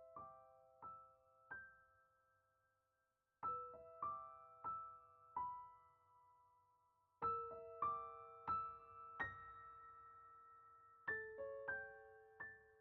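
Soft, slow piano music: short phrases of about four single notes, each left to ring out, with a new phrase starting every three to four seconds.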